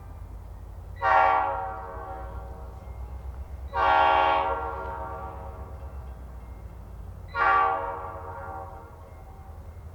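Diesel freight locomotive's air horn sounding three blasts: two longer ones, then a short one, the start of the long-long-short-long grade-crossing signal. A low steady rumble runs beneath.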